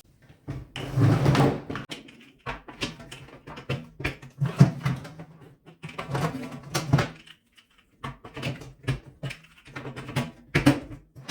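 Plastic caster wheels being pressed and clicked into the base of a wet-and-dry vacuum's container: irregular knocks, clicks and handling clatter with short pauses between.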